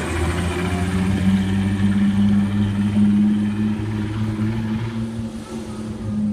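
Turbocharged VW VR6 engine in a Mk3 GTI running at a steady speed with its exhaust disconnected, a loud, open, unmuffled sound. The turbo is worn and passing oil.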